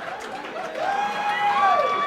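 A man imitating fireworks with his voice: held whistling tones that slide up, hang, then drop away about a second and a half in, with a higher tone starting over the end.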